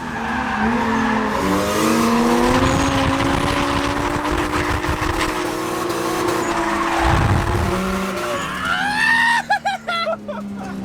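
A Lexus IS300 drift car's 4.0-litre 1UZ Toyota V8 running hard under throttle while drifting, its pitch rising and falling with the throttle, over tyres skidding and squealing. Near the end the engine revs up quickly.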